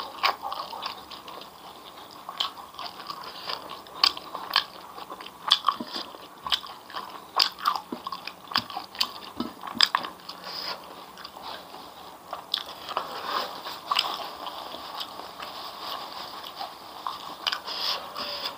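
Chewing and crunching of fried grasshoppers with rice, with irregular sharp crunches throughout.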